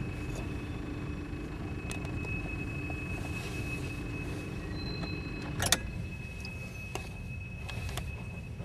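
Loaded quarry hopper wagons of a freight train rolling past: a steady low rumble of wheels on rail with a thin steady high whine, and a few sharp knocks, the loudest about halfway through.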